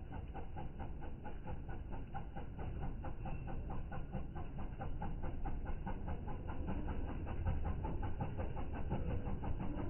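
A 20-year-old Mahindra tractor's diesel engine idling with a steady, even beat.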